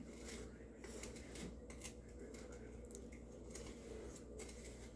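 Spoon faintly scraping and stirring dry cinnamon sugar in a measuring cup, in short repeated strokes.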